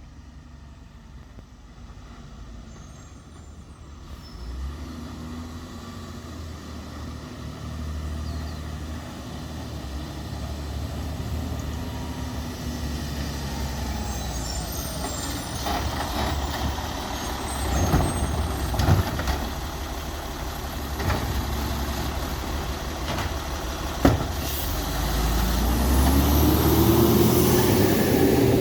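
Peterbilt 320 garbage truck's diesel engine, growing steadily louder as the truck approaches. A few sharp knocks and bangs come in the second half, and near the end the engine revs up, rising in pitch.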